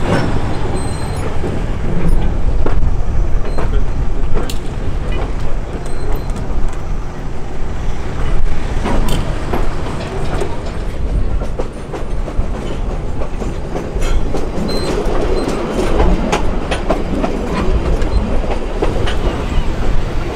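Heritage train running along the track: a steady rumble of wheels on rail, with irregular clicks as the wheels pass over the rail joints.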